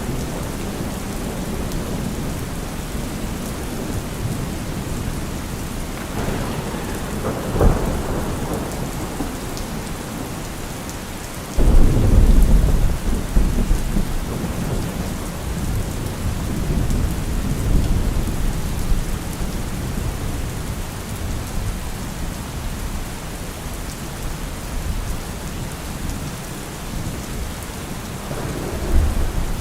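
Steady heavy rain with rolling thunder: a sharp crack about a third of the way in, then a sudden loud, deep rumble that rolls on for several seconds, and another rumble building near the end.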